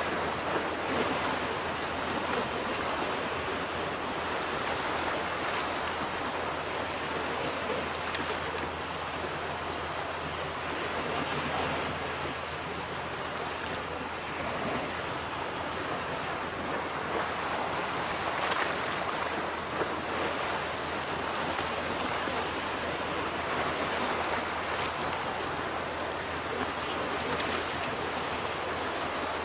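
Ocean surf washing onto a beach: a steady wash of waves with small swells in level.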